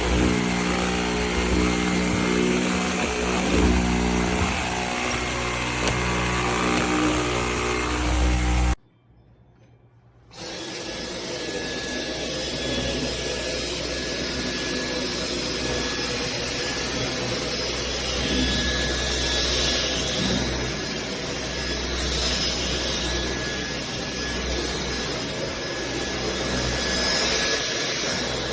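Cordless wet-dry vacuum mop running steadily with a humming motor. It cuts off suddenly for about a second and a half around nine seconds in, then runs again with a hissier sound and a thin steady whistle.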